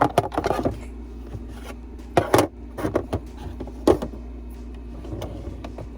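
Makeup products and containers clicking and knocking as they are handled and put into storage drawers: a scatter of short, sharp knocks, loudest about two and four seconds in.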